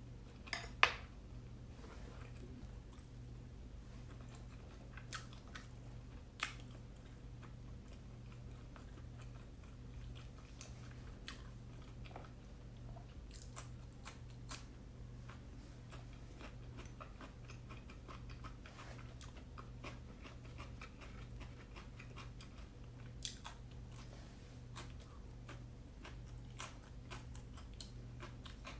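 Close-up chewing and biting of steamed siomai dumplings, with scattered soft mouth clicks and a sharper click about a second in.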